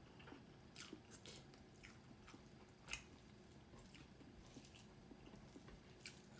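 Faint close-up eating sounds: soft chewing and wet mouth clicks from a mouthful of rice with chicken curry, with a few scattered ticks, the sharpest about halfway through.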